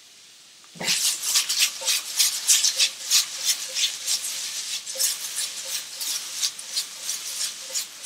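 Shrimp and diced onion sizzling in hot oil in a wok. The sizzle starts about a second in and comes in quick pulses as the wok is tossed.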